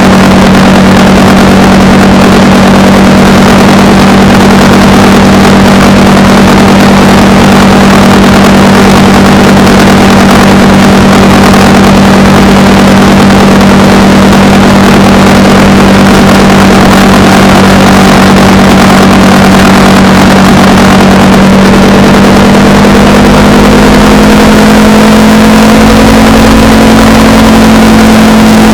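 Motorcycle engine running at a steady cruising speed under a heavy rush of wind on the microphone. About three-quarters of the way in, the engine note rises a little as the bike speeds up, then holds steady.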